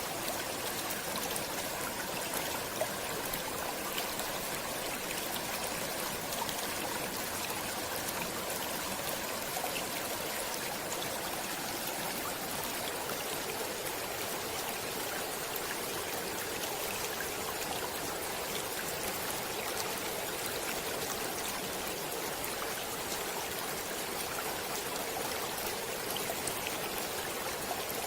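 Water of a stream running steadily, a continuous rushing with small splashes and trickles.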